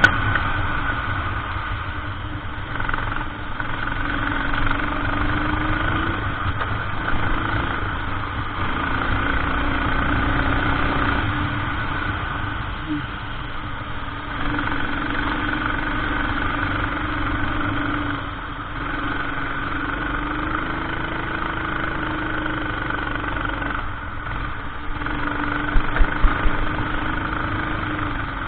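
Racing kart engine heard onboard at race pace, its pitch climbing on the straights and dropping each time the kart slows for a corner, roughly every five seconds. A few sharp knocks come near the end.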